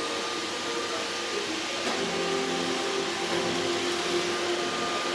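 iRobot Roomba robot vacuum running, a steady whir of its suction motor and brushes with a faint humming tone over it.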